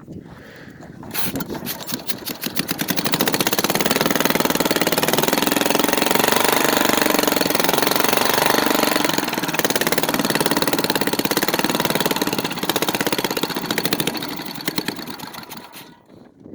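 1950s Briggs and Stratton single-cylinder engine starting about a second in, running steadily for around ten seconds, then sputtering down and dying near the end as it runs out of fuel, the gas having been shut off because of a leak.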